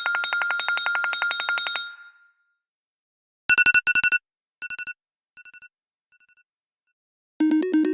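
Apple ringtones playing in turn: a fast electronic trilling ring that stops about two seconds in, then after a pause a different tone of two quick trilled bursts followed by fainter and fainter echoing repeats. Near the end a new, melodic ringtone starts.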